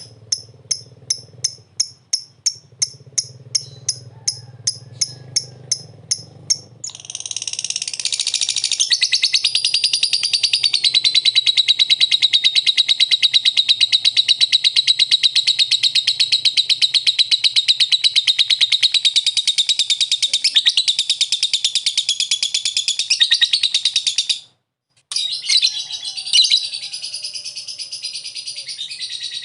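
Lovebird singing: first sharp high chirps, evenly spaced at about three a second, then from about seven seconds a long unbroken rapid chattering trill, the 'ngekek' song, lasting about seventeen seconds. The sound cuts out for half a second near the end, and the chattering and chirping resume.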